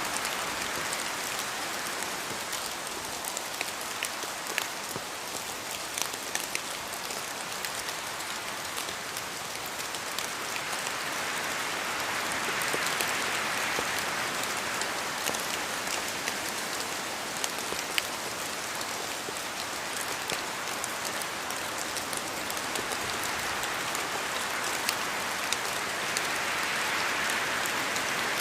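Steady rain falling in a forest, with many individual drops ticking sharply through the even patter. The rain swells gently near the middle and again near the end.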